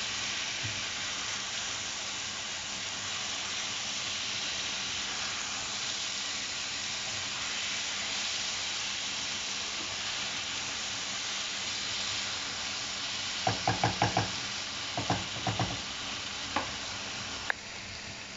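Diced puffball mushrooms and onion sizzling steadily in a frying pan with clarified butter while being stirred. About thirteen seconds in comes a run of quick, sharp knocks, then a few more, and near the end the sizzle drops lower.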